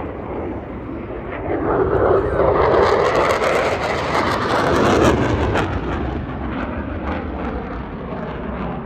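Jet aircraft passing by: an F-16 Fighting Falcon's engine noise swells over a couple of seconds, stays loudest for a few seconds, then fades.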